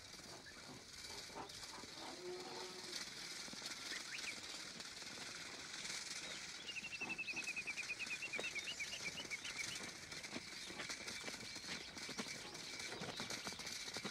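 Quiet outdoor ambience with birds calling. About seven seconds in, a bird gives a rapid trill of notes that falls slowly in pitch over about three seconds.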